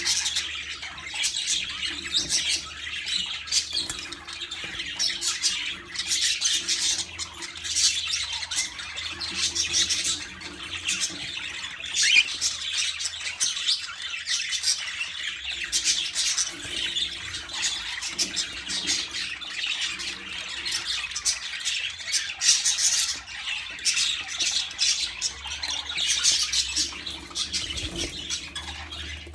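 A group of birds calling: many short, overlapping calls and chirps without a break.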